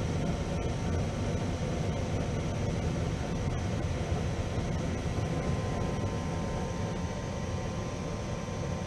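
Gas furnace running with its burners lit, a steady low rushing noise of flame and fans. The furnace is holding flame after its dirty flame sensor was cleaned.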